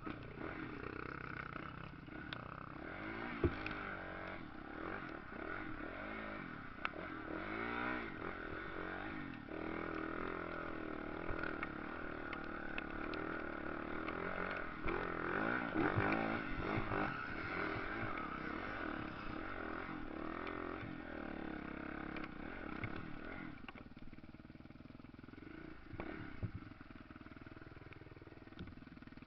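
Motocross dirt bikes revving and passing, their engine pitch rising and falling again and again, with a few sharp clacks. Quieter in the last few seconds.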